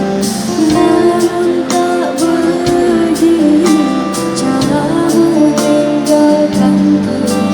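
Live band music with percussion hits, plucked strings and singing.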